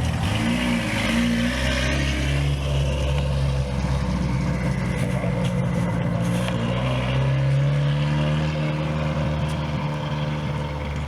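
Car engine running steadily at low revs, its pitch wavering slightly a couple of times.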